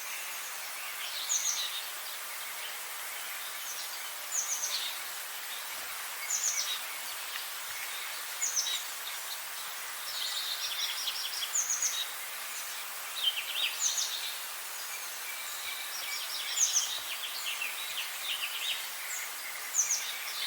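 A songbird calling over and over, about once every two seconds. Each phrase is a quick high falling note followed by short chattering notes, over a steady hiss of outdoor ambience.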